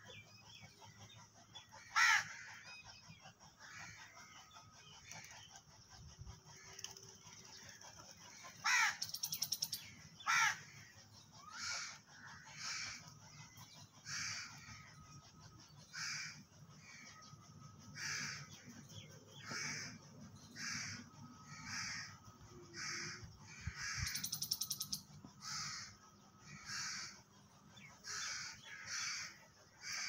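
Birds calling: a few sharp, downward-sweeping calls in the first ten seconds, then a steady run of short harsh calls about once a second.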